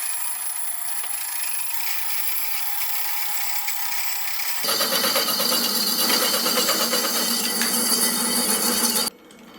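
Slitting saw in a milling machine cutting through steel: a steady high-pitched cutting noise that gets louder and harsher about five seconds in, then cuts off suddenly near the end.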